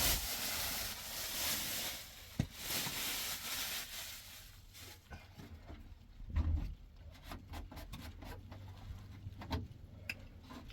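Scraping or rubbing noise for the first few seconds, then a low thump and a run of scattered light knocks and clicks.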